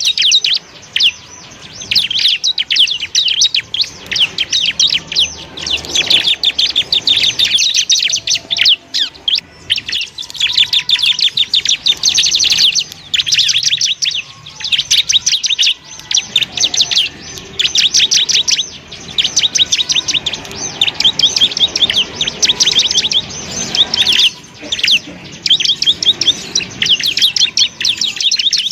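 Bar-winged prinia (ciblek) singing: long runs of rapid, high-pitched chattering trills, repeated many times a second, broken by brief pauses.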